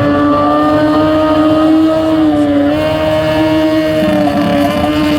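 Racing boat engine running flat out at high revs, a steady pitched note that creeps up slightly and dips briefly about two and a half seconds in.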